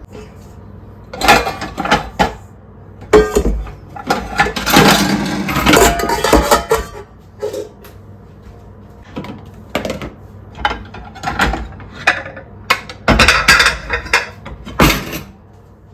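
Dishes being washed by hand in a kitchen sink: plates, pots and cutlery clinking and knocking together in irregular clusters, busiest about a third of the way in.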